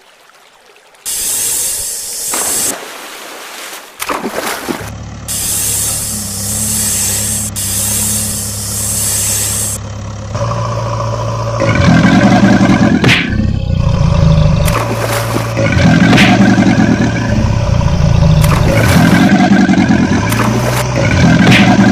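Heavy vehicle engine sounds, a steady low running hum with a loud hiss over the first half, then a pattern that repeats about every three and a half seconds.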